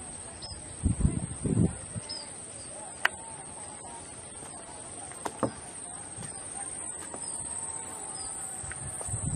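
Outdoor ambience of faint short, high bird chirps every second or two over a steady thin high whine, with a few low thumps about a second in and a couple of sharp clicks.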